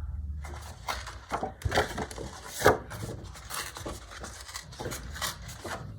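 Thick scrapbook paper being torn by hand in short, uneven rips, with a louder rip about two and a half seconds in.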